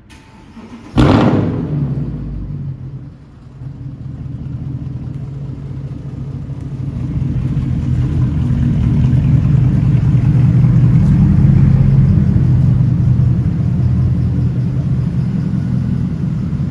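Mercedes-Benz W204 C63 AMG's 6.2-litre V8, with mid pipe and mufflers deleted, cold-starting: it fires about a second in with a loud flare, dips briefly, then settles into a loud, steady cold-start high idle.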